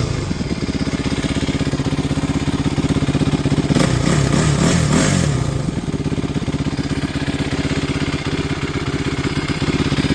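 2009 Kawasaki KLX450R's single-cylinder four-stroke engine idling after its rebuild, with the throttle blipped a few times about four seconds in before it settles back to a steady idle.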